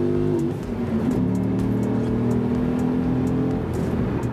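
The Dodge Ram SRT-10's 8.3-litre Viper V10 is pulling hard under acceleration. About half a second in there is a brief break, as at a gear change, and then it pulls on at a lower pitch.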